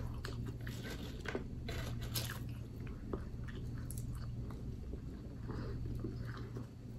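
Close-miked chewing of crinkle-cut french fries: soft wet mouth sounds with small clicks and crunches scattered throughout, over a low steady hum.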